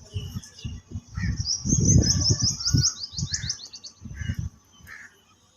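A songbird giving a rapid run of high, quick chirps lasting about two seconds, over irregular low rumbling thumps.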